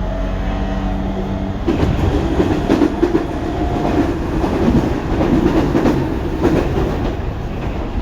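Tobu 9050 series electric train running, heard from on board: steady motor tones at first, then from about two seconds in a louder rumble with a rapid run of wheel clacks and knocks over rail joints or points.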